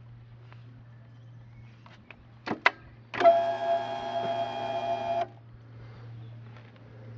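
Two sharp clicks, then a small electric motor whining steadily for about two seconds before it cuts off.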